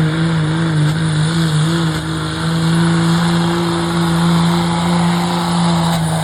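Cummins diesel engine of a Dodge pickup running flat out under load while pulling the sled: a loud, steady engine note that wavers slightly, with a faint high whistle above it.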